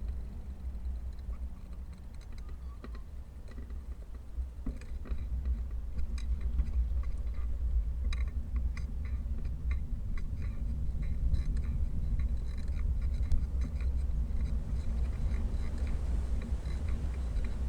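Wind rumbling on the camera microphone during a bike ride, with many short ticks and clicks from about five seconds in.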